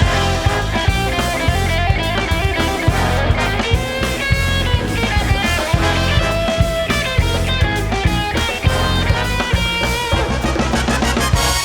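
Big band playing, with guitar and drum kit prominent in the mix over a driving beat. It ends on a sharp ensemble hit.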